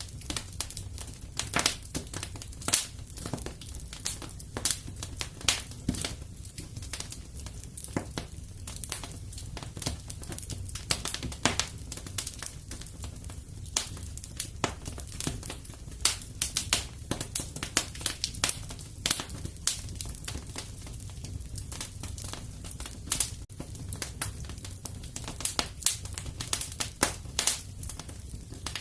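Wood fire burning in a fireplace, crackling and popping with many sharp, irregular snaps over a low, steady rumble of flame.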